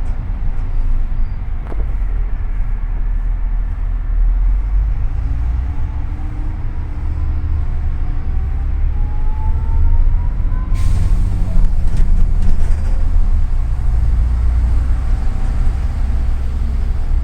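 Inside a double-decker city bus: the engine's low, steady rumble, with a rising whine about halfway through as the bus picks up speed. About two-thirds in, a hiss of air starts and carries on.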